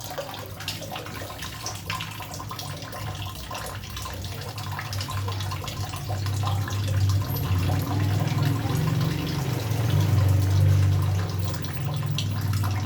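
Tap water running steadily into a bath basin, with scattered small splashes. It gets louder in the second half.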